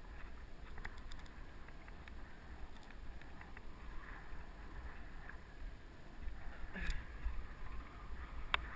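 Wind rumbling on a helmet-mounted GoPro with mountain bike tyre and riding noise on a dirt trail. Small clicks and rattles run through it, a short falling tone comes about seven seconds in, and a sharp click comes near the end.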